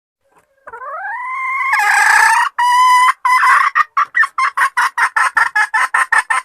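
Junglefowl hen calling to draw a male: a long note rising in pitch, a shorter note, then a run of about a dozen short clucks at about four a second that stops abruptly.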